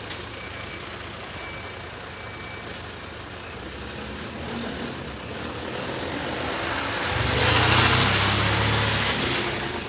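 A motor vehicle, most likely a truck, approaching and passing close by on a snowy street. Engine hum and tyre noise build steadily to a peak about eight seconds in, then start to fade.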